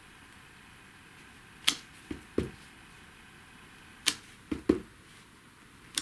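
Sharp taps and knocks of hard plastic on a tabletop, a few around two seconds in and a few more around four to five seconds in: an acrylic stamping block and a clear stamp being handled and set down.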